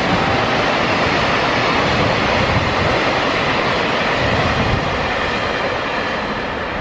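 Freight train rolling past at speed: a steady rushing rumble of wagons on the rails, easing slightly near the end.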